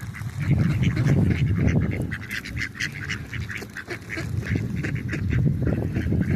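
A flock of ducks and geese calling: a rapid stream of short, overlapping calls, with a low rumble underneath.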